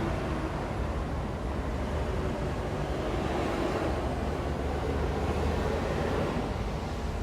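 Steady downtown street traffic: vehicle engines rumbling under a haze of tyre and road noise, swelling somewhat around the middle as traffic passes closer.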